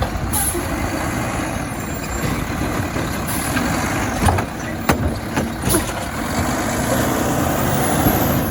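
Garbage truck engine running steadily, with a few sharp knocks about halfway through.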